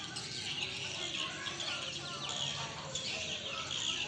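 Swiftlets chirping and twittering together, many short high calls overlapping in a continuous chatter.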